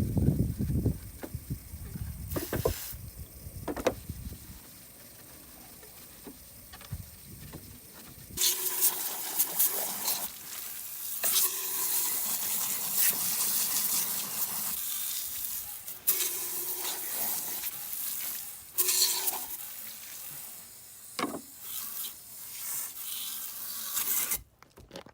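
Sizzling and hissing in several stretches that start and stop abruptly from about eight seconds in, after a low rumbling noise at the start.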